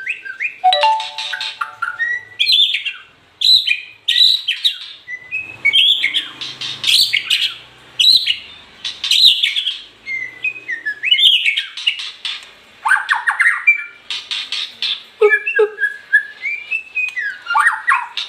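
White-rumped shama singing: a continuous run of varied phrases that mix clear rising and falling whistles with fast chattering notes, separated by short pauses.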